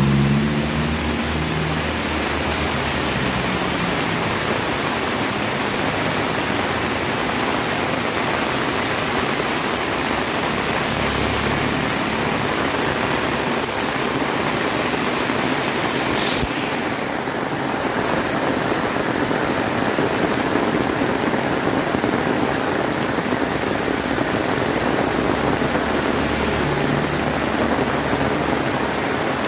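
Heavy rain pouring steadily, a dense even hiss of downpour.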